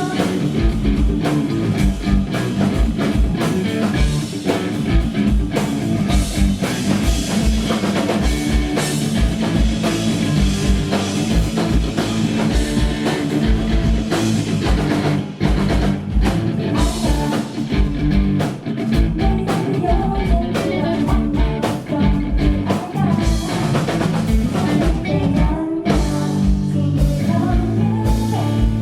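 Live heavy-metal band playing loudly: electric guitars over a drum kit with rapid kick-drum beats, and a woman singing.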